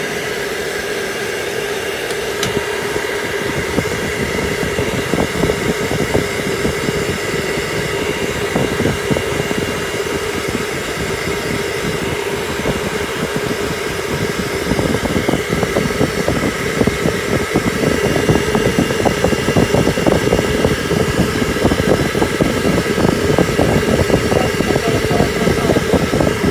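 Electric hair dryer blowing at a dog, its motor whining steadily over the rush of air. The air flutters and grows louder about halfway through.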